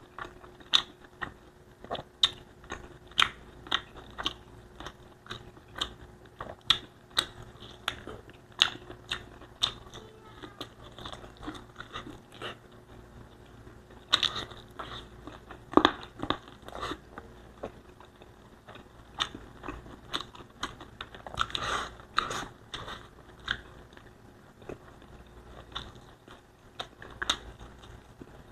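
Close-miked mouth sounds of a person chewing Bicol Express and rice, with sharp clicks about once or twice a second and louder bursts of chewing around halfway and about two-thirds of the way through.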